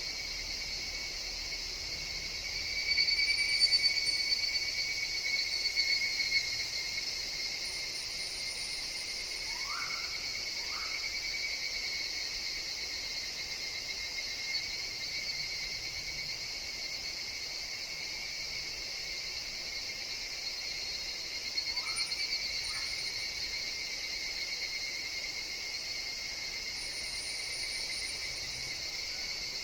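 Higurashi (evening cicadas) calling in a forest, a steady high insect drone. A nearer call swells up and fades a few seconds in, and again about two-thirds of the way through.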